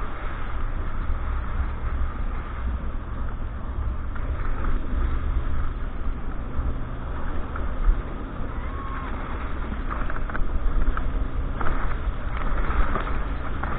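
A motorboat engine running steadily under way: a low, even rumble with wind noise on the microphone.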